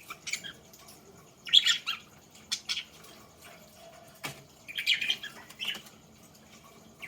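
Pet budgerigars chirping in several short bursts of high chirps, with one sharp click a little past the middle.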